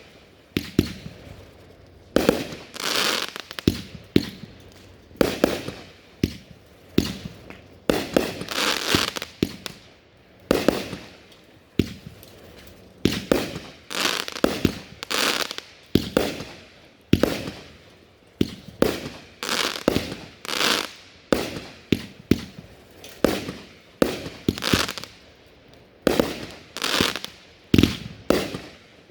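Consumer aerial fireworks firing in quick succession: sharp bangs roughly one a second, many trailed by crackling.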